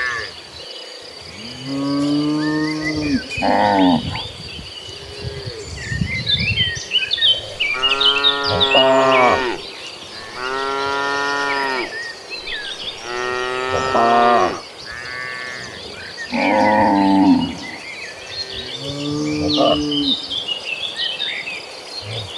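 A herd of cattle mooing, about seven long moos from different animals, one after another with gaps between.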